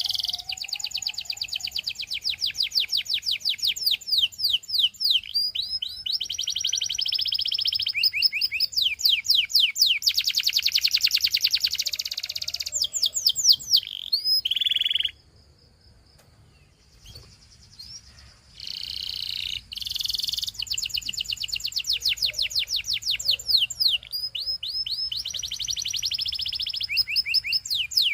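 Domestic canary singing long, fast trills and rolls, one phrase running into the next. The song stops for about three seconds in the middle, then starts again.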